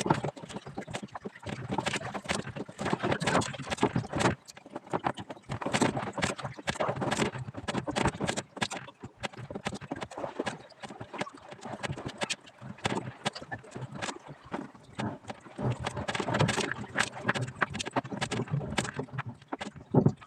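Irregular knocking and clattering of fishing gear being handled and packed up on a boat, many short knocks at uneven intervals.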